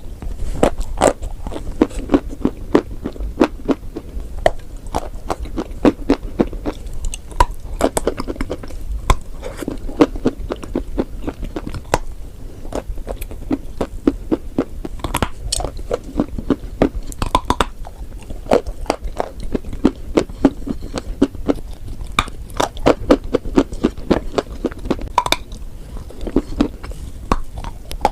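Crunchy chalk and clay being bitten and chewed: a dense, irregular run of small crunches, several a second.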